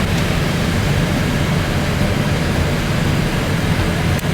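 Steady cabin noise inside a Boeing 787 airliner: a low rumble with the hiss of airflow underneath it.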